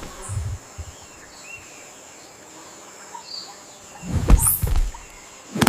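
Forest ambience with a few faint bird chirps over a steady high insect-like whine, broken about four seconds in by heavy low thumps with a rising rush, and one more loud thump near the end.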